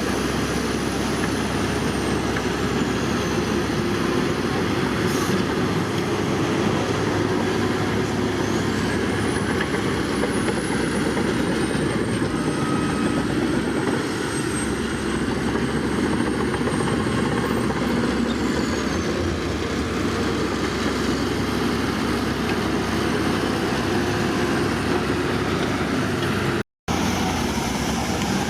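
Heavy diesel engines of a bulldozer and dump trucks running steadily at work, with a split-second gap near the end.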